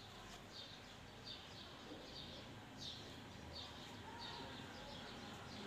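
Faint birds chirping in the background: short high chirps, two or three a second.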